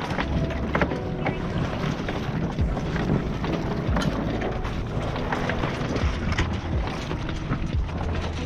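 Wind buffeting the microphone over water washing and slapping along a sailboat's hull as it moves, with many short splashes throughout.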